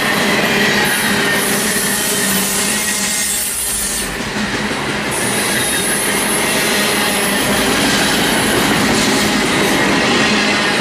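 Freight train of intermodal well cars rolling past, a steady noise of steel wheels on rail with a thin, steady squealing tone from the wheels.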